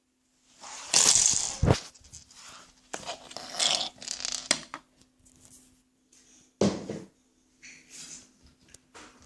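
Plastic Lego bricks rattling and clicking in several short bursts of handling, over a faint steady hum.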